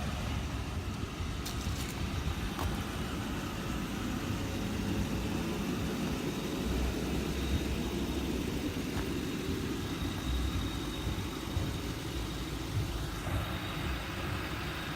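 Ford Crown Victoria's 4.6-litre V8 idling steadily.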